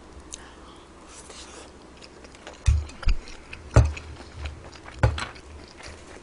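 Close-up eating sounds: quiet chewing, broken by four sharp clicks of utensils against a dish in the second half.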